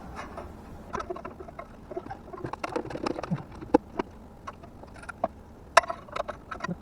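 Irregular light clicks, taps and small snaps of hands and tools working the O2 sensor's wiring and plastic connector clip.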